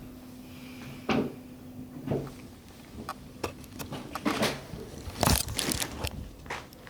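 Kittens moving and playing close to the microphone: irregular taps, scuffs and rustles, with a louder knock about five seconds in, over a faint low steady hum.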